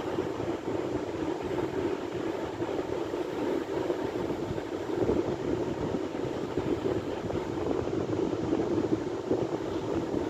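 Sea waves and surf, a steady rushing noise with no distinct breaks.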